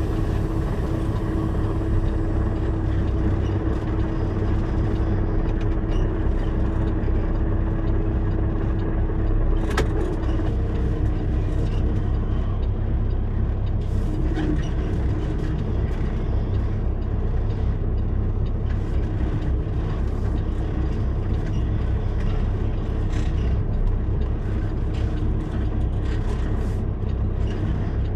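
Semi truck's diesel engine running steadily at low speed while the tractor backs under a trailer, with a steady low rumble throughout. A sharp click comes about ten seconds in.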